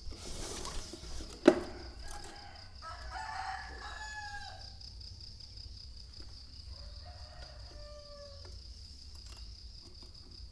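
A rooster crowing twice, the second crow fainter, over a steady high insect trill. A sharp knock sounds about a second and a half in, after a brief rustle.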